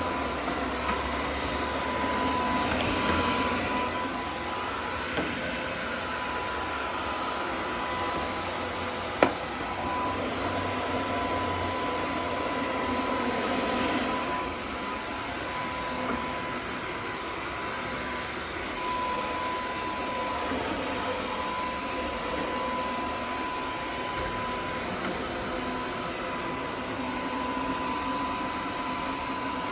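UMLo V160 cordless stick vacuum's brushless motor running steadily with a high whine, with the rush of suction through an attachment. One sharp click about nine seconds in.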